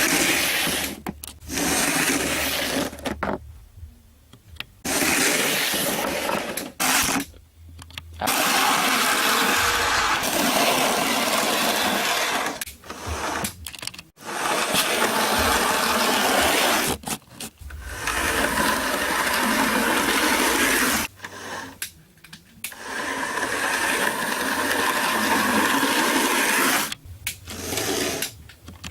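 Bachmann model train locomotive motor whirring as it runs on the track. It stops and starts again about six times, in stretches of a few seconds each.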